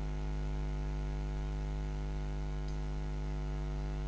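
Steady electrical mains hum, a low buzz that stays unchanged throughout.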